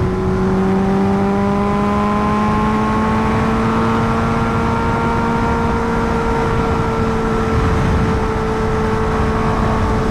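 Kawasaki Ninja H2R's supercharged inline-four engine pulling steadily under way, its pitch rising gently for the first few seconds and then holding at an even cruise, over a steady rush of wind and road noise.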